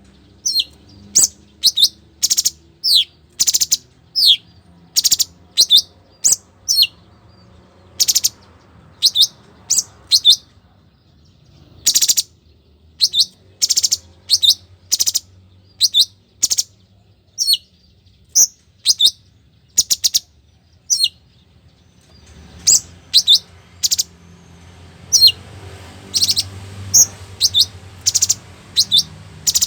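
A cungkok songbird singing: a long series of short, sharp, high whistled notes, many sliding steeply down in pitch, delivered in quick runs with a couple of brief pauses.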